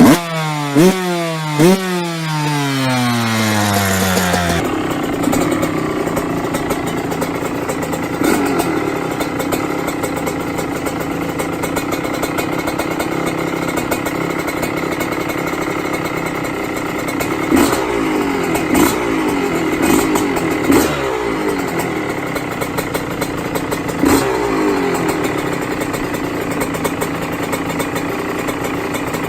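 Yamaha YZ125 single-cylinder two-stroke engine through an aftermarket exhaust, revved with three quick throttle blips. After a cut, a steady idle broken by several short throttle blips every few seconds.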